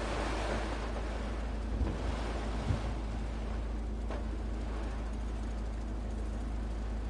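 Rainstorm wind gusting with rain, the wind buffeting the microphone as a steady low rumble under a constant rushing noise. Two faint knocks about two seconds in.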